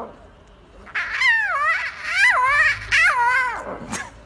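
A cat meowing, three drawn-out, wavering meows one after another, with a short sharp sound near the end.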